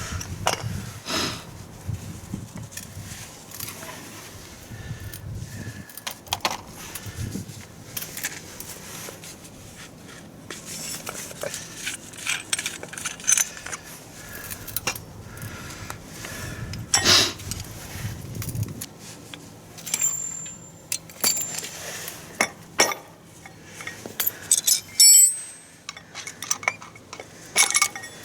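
Irregular metallic clinks and clatter of hand tools and small metal parts being handled during work on a scooter, with sharper knocks now and then and a busier run of clinks near the end.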